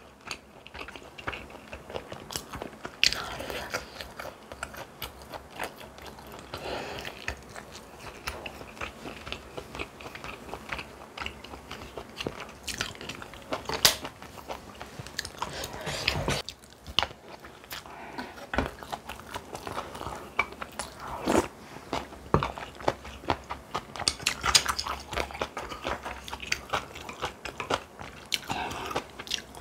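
A person eating close to the microphone: biting and chewing food, with many small crisp clicks and several louder crunches.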